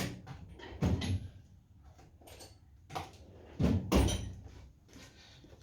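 Knocks and clunks of parts and tools being handled during engine disassembly: a sharp knock right at the start, another about a second in, and a cluster of louder knocks around three to four seconds, with lighter rattling between.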